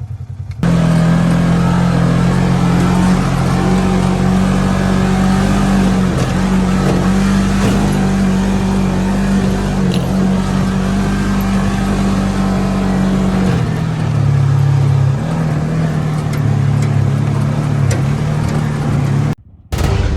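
Off-road vehicle engine running hard at fairly steady revs, with wind and ride noise over it. The engine note drops lower about thirteen seconds in, then shifts back and forth.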